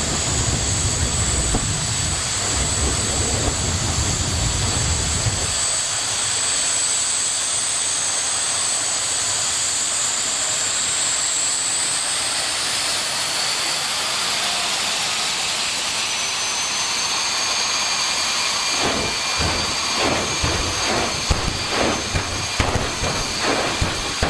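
A jet drag-racing car's turbine engine running: a steady high whine over a loud rushing hiss, with a low rumble for the first few seconds. The whine rises in pitch about halfway through, and a run of irregular low pops comes near the end.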